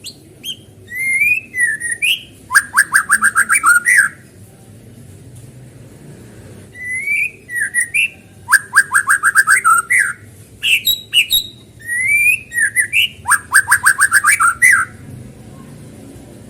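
White-rumped shama (murai batu) singing in three loud phrases. Each phrase starts with gliding whistles and breaks into a fast run of repeated sharp notes. It is played as a lure song to provoke a captive shama into singing.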